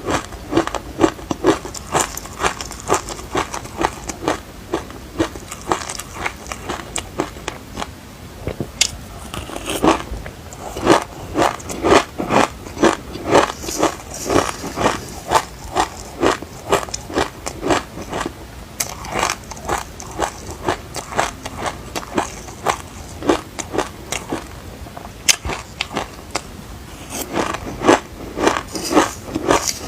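Close-up chewing of passion fruit, its hard seeds crunching and crackling at a steady chewing rhythm of about two to three chews a second, with a couple of short pauses.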